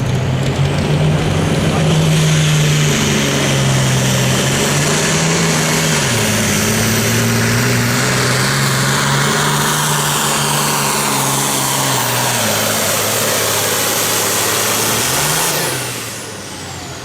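Super Farm pulling tractor's turbocharged diesel engine running flat out through a pull, with a high turbo whistle over it. The engine note steps down twice as it works against the sled, rises briefly near the end, then drops off as the run ends.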